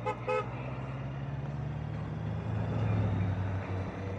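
Two quick vehicle-horn beeps right at the start, then a steady low engine drone of riding in road traffic that swells about halfway through.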